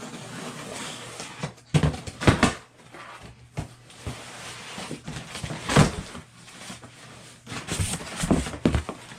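A cardboard shipping box being cut open with a pocket knife and handled: a scraping at first, then several knocks and scrapes as the box and its flaps are moved.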